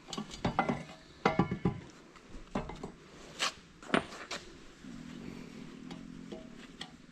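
Metal tools and parts clinking and knocking while a corn head is worked on: a quick run of ringing clanks in the first two seconds, then a few separate sharp knocks, with a faint low hum near the end.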